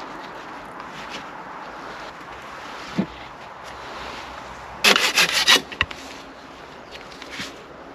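Wood being worked by hand with a tool: a steady rasping, a single knock about three seconds in, and a quick run of five or six loud strokes about five seconds in.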